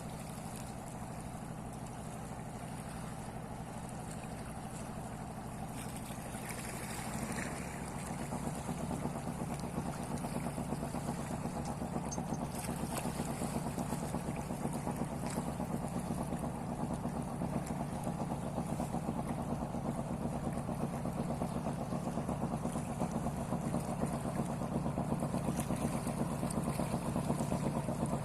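A fishing boat's engine running steadily. It gets louder about seven seconds in and keeps rising slowly toward the end.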